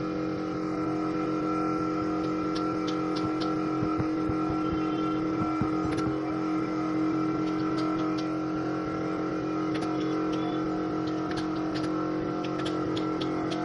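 A motor running at a steady, unchanging pitch, with scattered sharp ticks over it.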